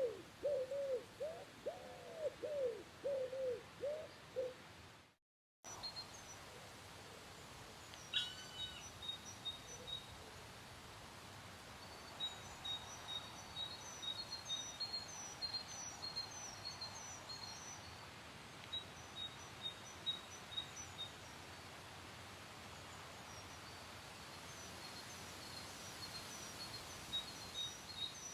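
A dove cooing in a quick run of low, arching notes for the first five seconds, then a sudden cut. After it, faint high-pitched chirps of small birds come in short series over a steady outdoor hiss.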